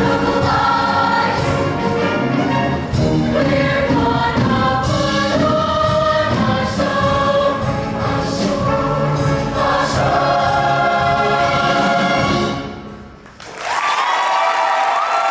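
High school show choir singing with its backing band; the song ends about twelve and a half seconds in. After a brief drop in level, the audience breaks into applause and cheering near the end.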